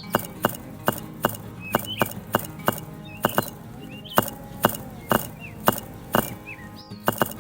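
Sharp knocks or taps repeated unevenly, about two or three a second, over steady background music with short bird chirps.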